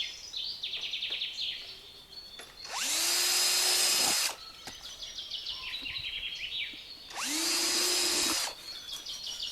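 Electric drill run in two short bursts of about a second and a half each, spinning up and holding speed as it bores a hanging hole through a dried birdhouse gourd. Birds chirp in quick repeated notes in between.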